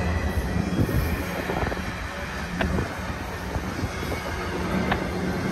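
Double-stack intermodal freight train's well cars rolling past, a steady low rumble of steel wheels on rail, with a couple of short sharp clicks.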